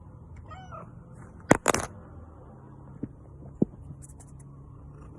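A short pitched animal call, rising then falling, then two loud sharp knocks close together, and two fainter knocks later.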